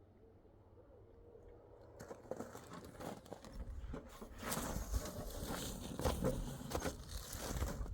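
Near quiet, then about two seconds in a run of irregular crunches, rustles and small knocks begins and grows louder.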